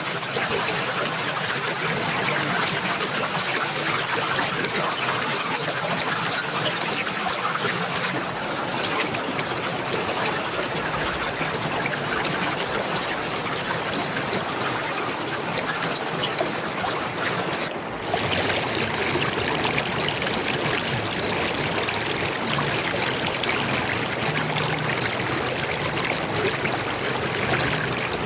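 Running water flowing steadily, like a stream, with a brief dip in level about two-thirds of the way through.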